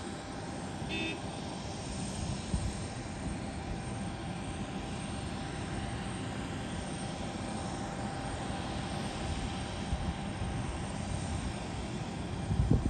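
Airplane engines running steadily, a constant whine over a rumbling hiss, with wind buffeting the microphone and a louder thump near the end.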